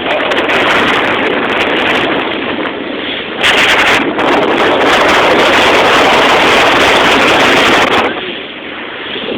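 Loud rushing noise of wind and water aboard a moving motorboat, louder from about three and a half seconds in and easing off near the end.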